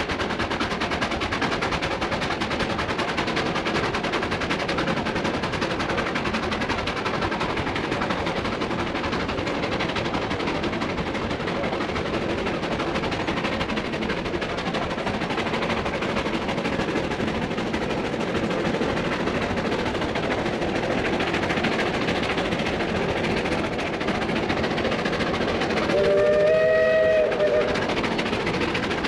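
Tourist train running along the track with a steady rumble and clatter from the cars. Near the end the locomotive's whistle blows once for about a second and a half, a chord of several tones.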